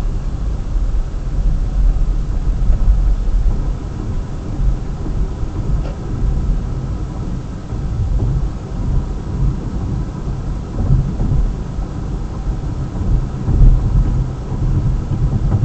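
Loud, uneven low rumble that swells and fades every second or so, with no words over it.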